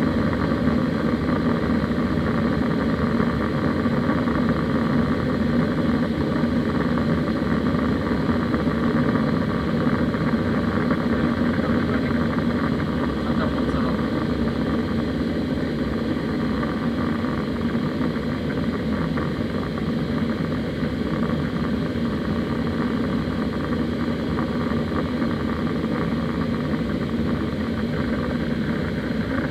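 Steady cabin noise of an Airbus A320: its jet engines and the rushing air, heard from inside the passenger cabin, with a low hum and an even level throughout.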